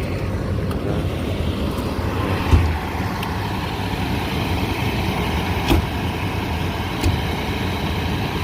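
Motor vehicles running nearby: a steady low engine rumble, broken by a few short sharp knocks, the loudest about two and a half seconds in.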